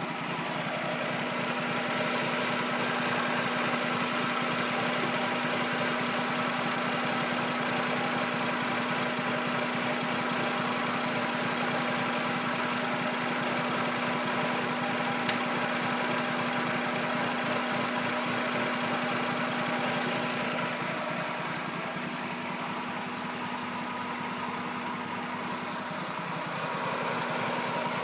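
1996 Mazda Miata's 1.8-litre four-cylinder engine idling roughly, a fault whose cause the owner does not know. The sound runs steadily, dips in level for a few seconds about two-thirds of the way through, then comes back up.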